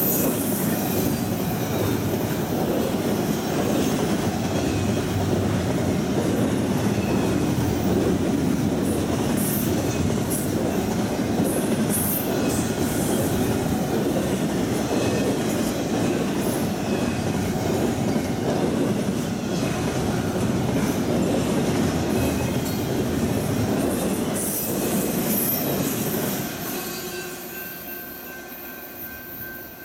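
Double-stack intermodal freight cars rolling past on curved track: a steady rumble of steel wheels on rail, with scattered high-pitched wheel squeals from the curve. The sound fades away over the last few seconds as the end of the train passes.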